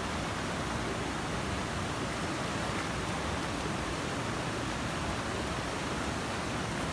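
Waterfall water rushing steadily, an even wash of noise that does not change.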